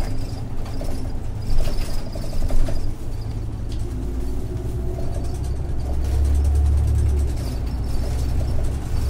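Isuzu Erga city bus heard from inside the cabin, its 6HK1-TCC diesel engine running under way through an Allison five-speed torque-converter automatic. A faint rising whine comes in around four to six seconds in, the engine note is heavier for about a second after that, and two sharp knocks sound about one and a half and two and a half seconds in.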